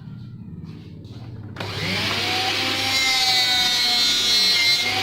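An electric power tool switches on abruptly about a second and a half in. It runs at high speed with a steady whine over a rough rushing noise.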